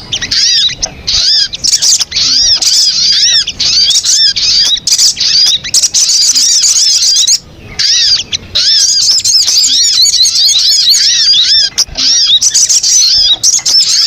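Lure recording of sogon birds calling: a rapid, continuous chatter of many overlapping arched chirps, with a brief break about seven and a half seconds in.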